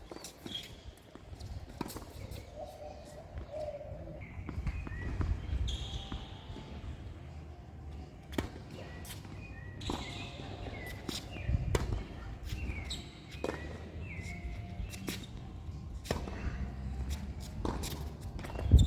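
Tennis balls knocking off rackets and bouncing on the court, an irregular series of sharp hits, with short high chirps, likely birds, between them.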